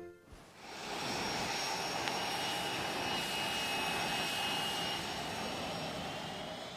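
Jet airliner engines running: a steady rushing noise with a thin high whine over it. It fades in during the first second and fades out near the end.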